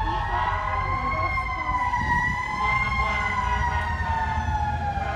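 Fire truck siren wailing, its pitch slowly rising and falling, over a low rumble.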